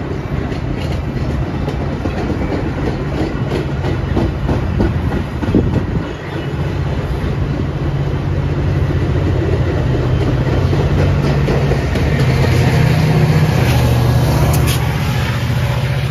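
Metra commuter train going by: a diesel locomotive's steady engine hum under the rumble of the train, with wheels clacking over rail joints. The engine hum grows louder about twelve seconds in.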